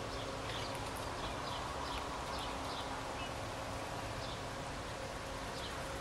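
A bird giving short, high chirps, each a quick falling note, repeated every half second or so in runs with brief gaps, over a steady faint hum.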